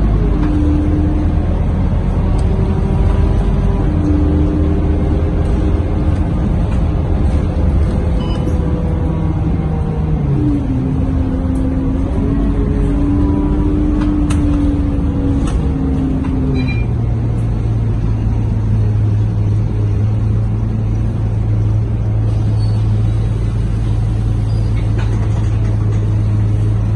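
Scania K230UB bus's five-cylinder diesel engine heard on board, running under way with its pitch stepping up and down, then settling about two-thirds of the way through into a steady low hum. A few faint rattles and clicks come through in the middle.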